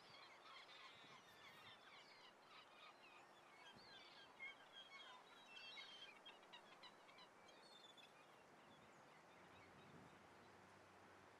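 Faint chorus of a flock of gulls calling, many short overlapping calls. The calls thin out and die away after about eight seconds.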